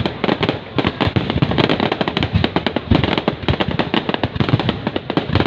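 Fireworks display: a dense, unbroken barrage of bangs and crackles, many bursts overlapping several times a second.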